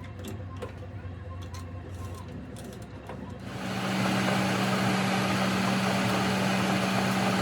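A few light metallic clinks, then just past halfway a workshop machine powers up over about half a second and runs steadily with a low hum and a hiss.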